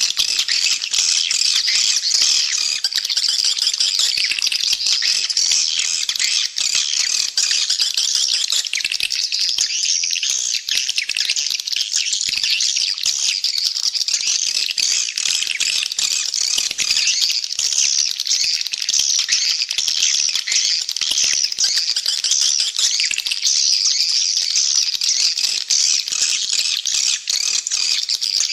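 Edible-nest swiftlets chattering in a dense, unbroken chorus of high calls. This is a swiftlet lure call, played to draw swiftlets into a swiftlet house.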